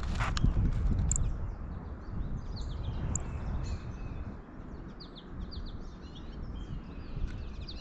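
Small birds chirping in many short, high notes over a steady low rumble, with a brief rustling burst at the very start.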